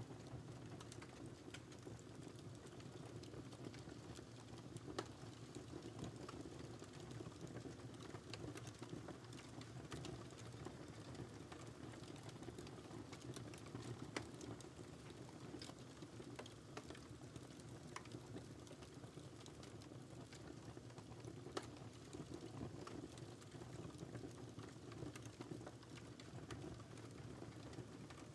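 Wood fire crackling in a fireplace: a steady low hiss of burning with frequent small crackles and a few sharper pops.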